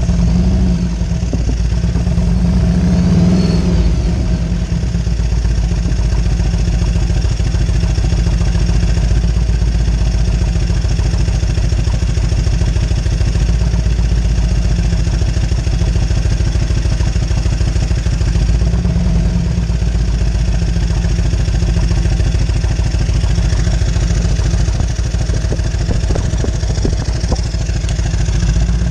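1998 Harley-Davidson Road King Classic's fuel-injected Evolution V-twin running at idle, its speed swelling up and settling back a couple of times: the engine revving up on its own, the fault the owner is trying to trace.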